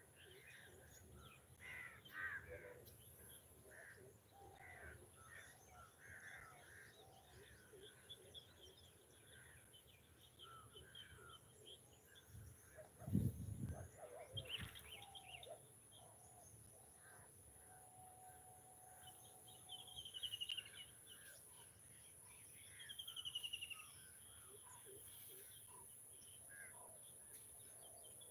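Scattered bird calls, short chirps and quick falling whistles, over a faint steady high-pitched tone. A single low thump about halfway through is the loudest sound.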